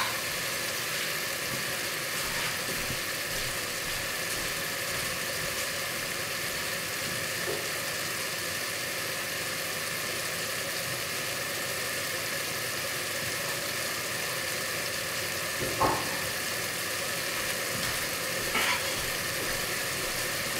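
Ground meat frying in a pot on the stove, a steady hiss, with a couple of soft knocks near the end.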